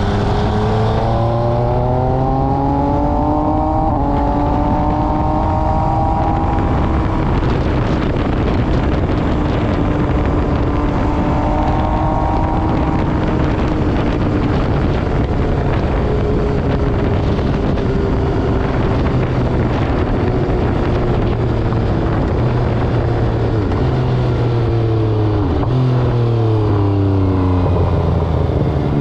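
MV Agusta Brutale 800RR's three-cylinder engine through an SC Project exhaust, under way. It climbs through the revs over the first few seconds with a brief break for a gear change, runs fairly steady through the middle, then drops in pitch in steps near the end before climbing again.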